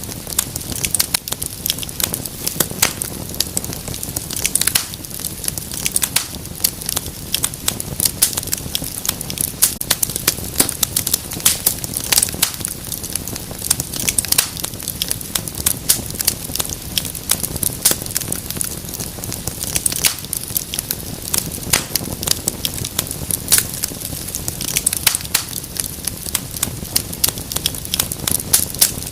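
Wood fire crackling in a fireplace: many irregular sharp pops and snaps over a low steady rumble of flame.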